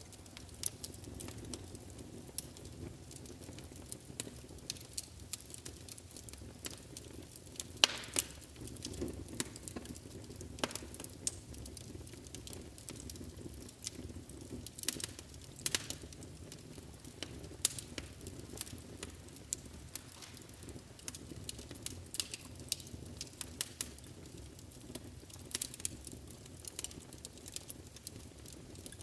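Wood fire burning in a fireplace and crackling: irregular sharp pops and snaps over the low steady rush of the flames, with one louder pop about eight seconds in.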